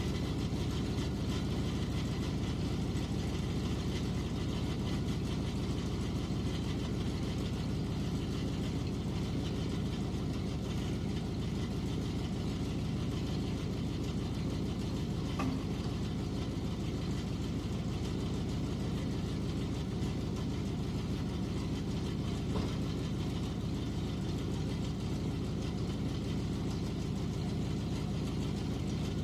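A vehicle engine running steadily with a low drone, and a couple of faint clicks about halfway through.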